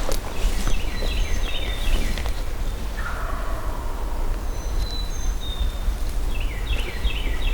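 A distant wild turkey gobbling once, a drawn-out call falling in pitch about three seconds in, with songbirds singing quick runs of high descending notes near the start and again near the end.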